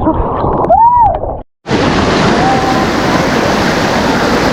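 A voice calls out with a rising-and-falling whoop, then after a sudden cut a steady rushing of river water fills the rest.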